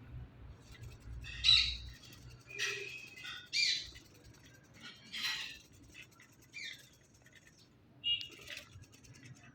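Pet Indian ringneck parakeet calling: about half a dozen short, high chirps and squawks at irregular gaps.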